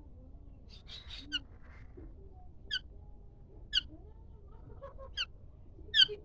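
A bird giving short, sharp, high calls, five of them about a second apart, the last one the loudest.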